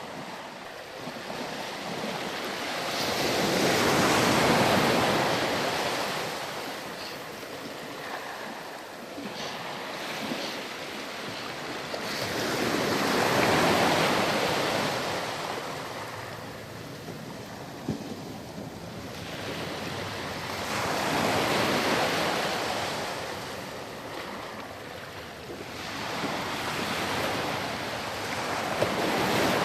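Ocean surf breaking and washing back on a beach, each wave swelling up and fading away about every eight seconds, four times.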